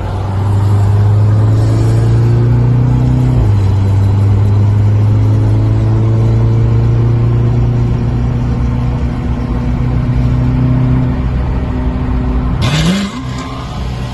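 Car engine under hard acceleration, pulling steadily through the gears with one upshift about three and a half seconds in. Near the end comes a sudden rush of noise with a quick rising note, and then the engine quietens as it comes off full throttle.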